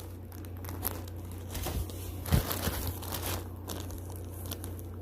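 Packaging crinkling and rustling as skeins of chenille yarn are handled and pulled out, with scattered small clicks and a sharper knock about two and a half seconds in, over a steady low hum.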